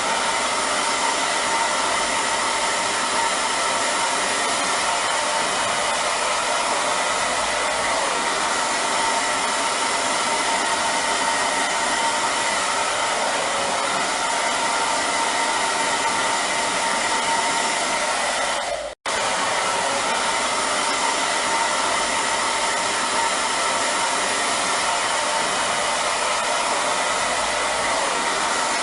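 Hair dryer blowing steadily, a loud even hiss of rushing air with a faint motor whine. It cuts out for an instant about two-thirds of the way through, then resumes unchanged.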